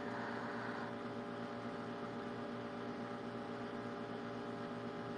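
Air conditioner running loud and steady: a constant hum of several steady tones over an even hiss, with no change throughout.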